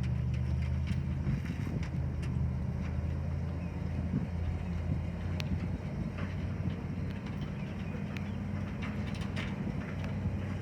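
1992 Ford dump truck's engine idling steadily, its low hum unchanging throughout.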